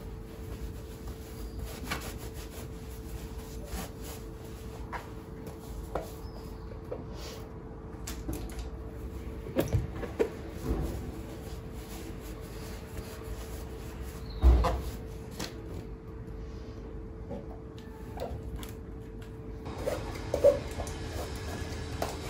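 Household handling sounds: scattered knocks and clicks of things being set down or moved, over a steady faint hum. The loudest knock comes about fourteen and a half seconds in.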